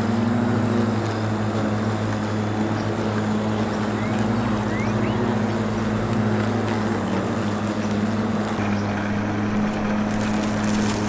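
A motor or engine running steadily with a low, even hum. Its pitch dips briefly about seven seconds in.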